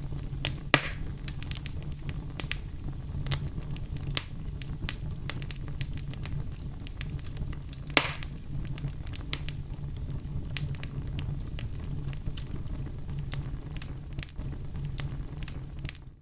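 Fire crackling in a fireplace: a steady low rumble of flames under scattered small crackles, with two louder pops, about a second in and about halfway through. The sound cuts out for a moment at the very end.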